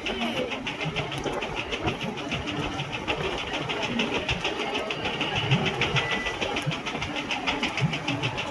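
Motorboat engine running steadily, with a rapid even knocking of about eight beats a second.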